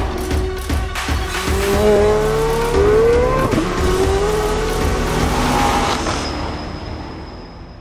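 Chevrolet C8 Corvette's V8 engine revving, its pitch sweeping up and down in repeated rises, over music. It fades out over the last two seconds, leaving a thin, high, steady tone.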